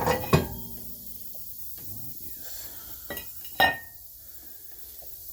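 Metal tools and parts clanking. There are sharp knocks about a third of a second in, and two more around three and three and a half seconds in, the last with a short metallic ring.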